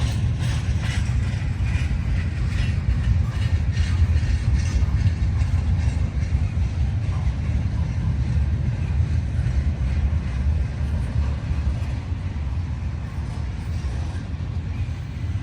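Freight train cars rolling by on the rails: a steady low rumble with metallic clicking and clanking, more noticeable in the first few seconds.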